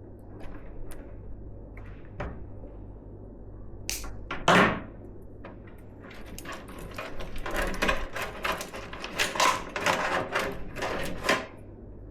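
Computer parts being handled by hand: scattered light clicks, one louder knock about four and a half seconds in, then a busy stretch of rustling and clattering that stops near the end.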